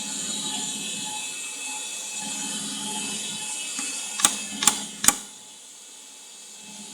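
RIDGID 535 threading machine running steadily. A little past four seconds in come three sharp clacks about half a second apart, and after them the running noise is quieter.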